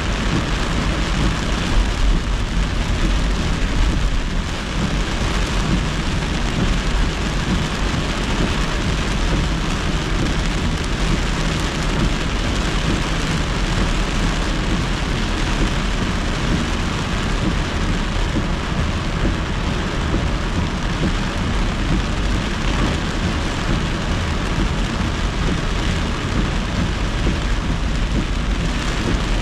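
Heavy thunderstorm rain beating on a moving car, mixed with the hiss of tyres on the soaked highway. A steady, loud noise with a deep low rumble underneath.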